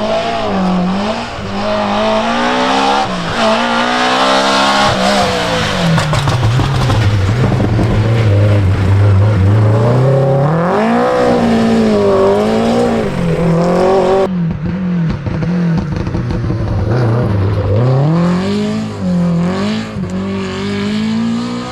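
Historic rally car engines at high revs on a stage, the pitch climbing and dropping repeatedly through gear changes and lifts. About 14 seconds in, the sound cuts abruptly to another car doing the same.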